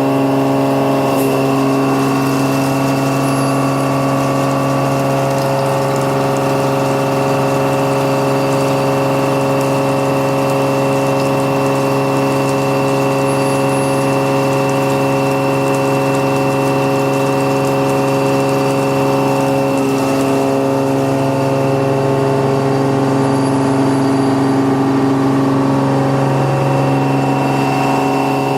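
Milling cutter with indexable inserts machining metal: a steady machine hum with a constant multi-tone whine over a hiss of cutting, unchanging throughout.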